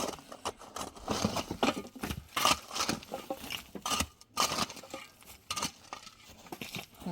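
A busy run of irregular knocks, clinks and scrapes, as of objects being handled and moved about.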